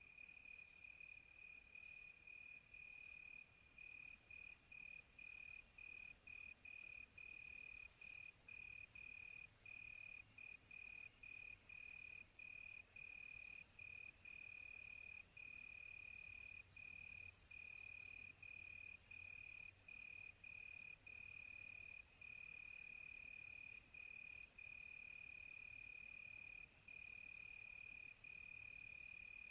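Crickets chirping at night: one faint, steady high trill broken by short gaps, over a fainter, higher insect chorus.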